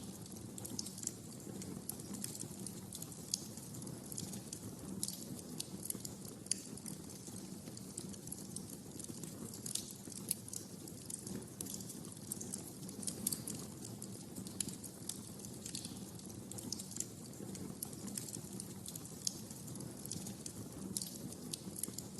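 Wood fire crackling and popping in a fireplace: a steady low rumble of flames with frequent small sharp crackles at irregular intervals and a few louder pops.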